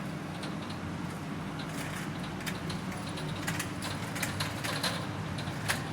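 Steady low drone of a moving car with light clicks and rattles scattered through it, coming thicker after the first second or so.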